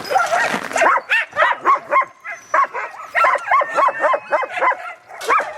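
Sled dogs barking and yipping in a quick, overlapping run of short high calls, about three or four a second, from several dogs at once. It is the excited clamour of a dog yard at feeding time.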